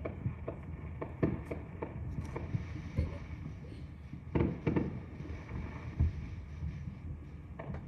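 Distant fireworks going off: irregular dull booms and pops over a low rumble, the strongest a pair about a second and a half in and another pair about four and a half seconds in.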